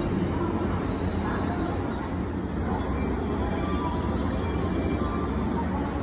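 Steady low hum and rumble of a railway station platform, with an electric commuter train standing at it, and a few faint short tones in the background.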